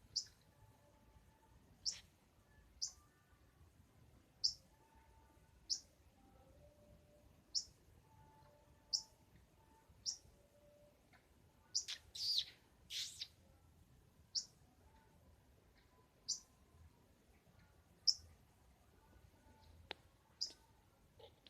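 A songbird, the one called 'sogon', practising its song: short sharp high chirps about every one to two seconds, with a quicker run of louder chirps about halfway through.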